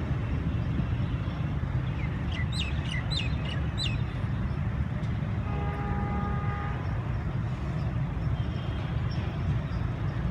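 Steady low vehicle rumble at an even level, with a quick run of bird chirps about two seconds in and a faint, steady horn-like tone held for about a second near the middle.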